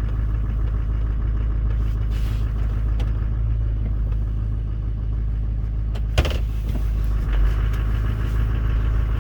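LBZ Duramax 6.6-litre V8 turbo-diesel running steadily at a raised cold idle while it pulls the truck along in gear. A single sharp click comes about six seconds in.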